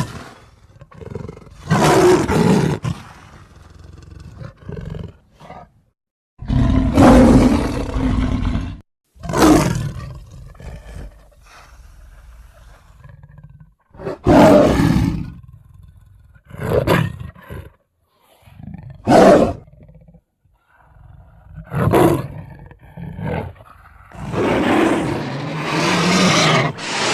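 A series of big-cat roars and growls voicing the sabre-toothed cat Barbourofelis, put together from smilodon, cave lion and leopard sounds. There are about nine separate calls with short gaps between them, most about a second long, a longer one a few seconds in and a long drawn-out roar near the end.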